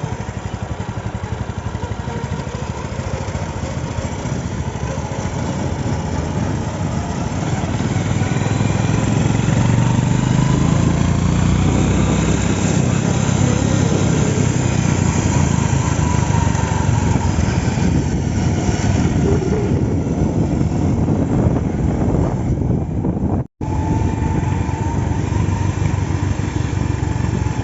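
An engine running steadily, getting louder about eight seconds in. The sound drops out for an instant near the end.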